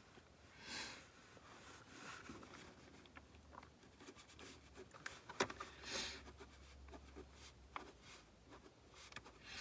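Quiet handling noises inside a car cabin: soft rustles with scattered light clicks and taps, one sharper click about five seconds in.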